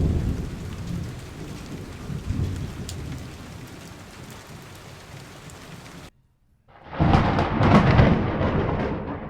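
Thunder rumbling over steady rain, slowly fading away. After a brief silence about six seconds in, a new loud thunderclap breaks and rumbles on.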